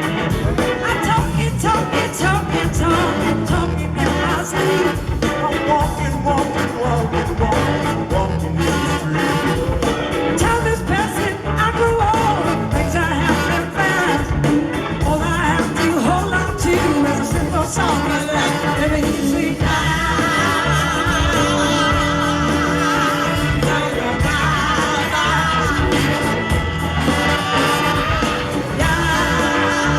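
Live rock-and-soul band playing with singing, loud and dense throughout, with long held, wavering notes in the last third.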